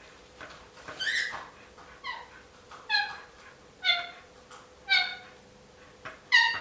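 Indian ringneck parakeet making short pitched calls, six in all at about one a second, each dipping slightly in pitch; the last call is the loudest.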